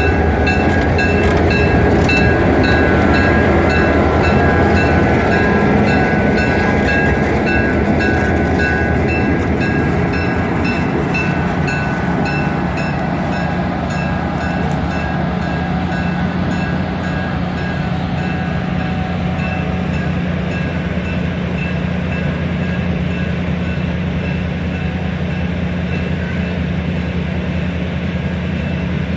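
Passenger train rolling along the track, heard from aboard the coach: a steady rumble and rattle. A faint high ticking repeats about twice a second and fades away in the second half.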